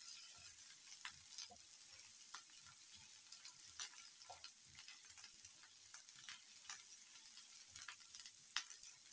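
Chopped onions and ginger-garlic paste sizzling faintly in oil in a nonstick frying pan. A silicone spatula stirs and scrapes across the pan in irregular short strokes.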